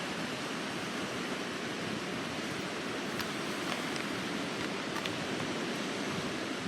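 Steady wash of sea surf on the shore, with a few faint ticks around the middle.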